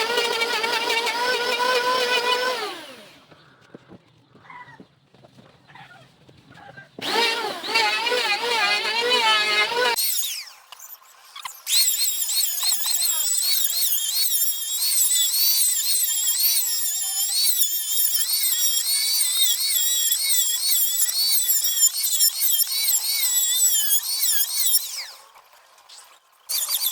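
An electric power tool running in three bursts, its pitch wavering as it works the wood. The first burst winds down as the motor stops, a shorter one cuts off sharply, and the longest runs for about thirteen seconds.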